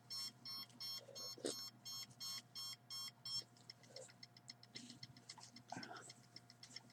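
Handheld signal detector beeping repeatedly, about two to three beeps a second, going off as it picks up a signal. The beeping stops about three and a half seconds in, leaving fainter, quicker ticking.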